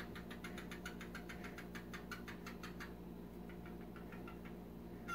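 Cockatiel making a rapid series of short clicks, about five a second, which grow fainter after about three seconds.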